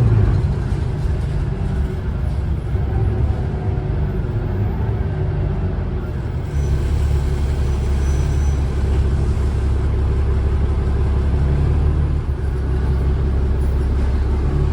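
Alexander Dennis Enviro500 double-decker bus's Cummins ISLe diesel engine running under way; about six and a half seconds in it gets louder as it pulls harder.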